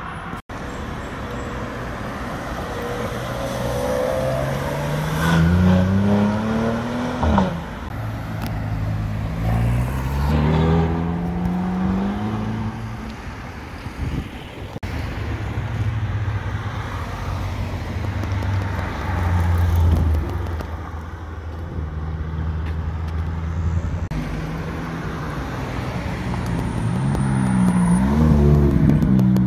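Street traffic: engines rising in pitch as vehicles accelerate past, then a steady low engine note. Near the end a McLaren sports car's twin-turbo V8 accelerates past close by.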